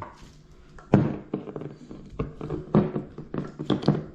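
Irregular taps and knocks from kitchen items being handled while the fish is seasoned, about half a dozen in a few seconds, the one about a second in the loudest.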